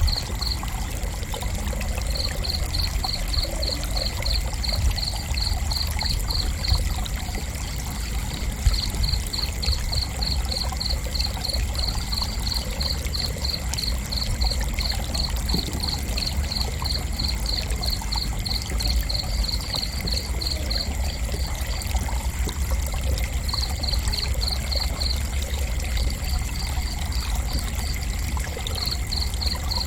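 Crickets chirping in even pulses, about three a second, in runs broken by short pauses near the middle and toward the end. A steady high whine and a low rumble run underneath.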